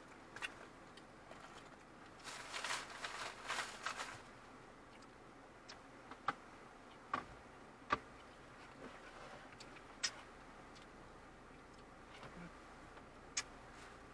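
A short burst of rustling, then a handful of separate sharp clicks or taps spaced a second or more apart.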